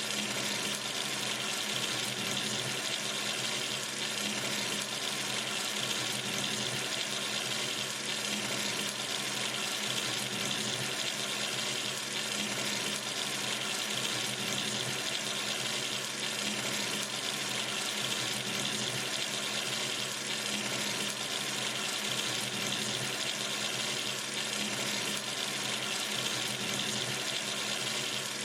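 Water running steadily from a sink tap into the basin, an even rushing that does not change.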